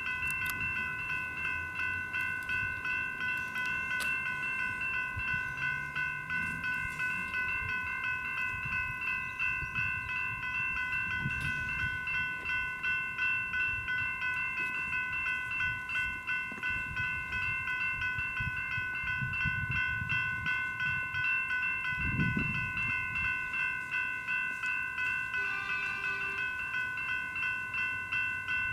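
General Signals electronic bells (E-bells) at a railway level crossing ringing steadily in quick, even strokes: the crossing is activated for an approaching train. Low rumbling runs underneath, and a brief lower tone joins near the end.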